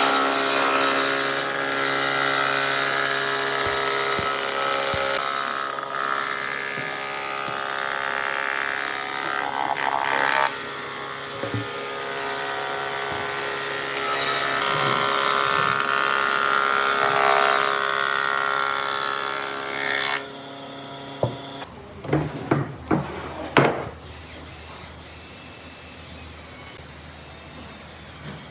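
Electric power tool running steadily on wood for about twenty seconds, then switched off suddenly; a few short knocks and clatters of wood follow.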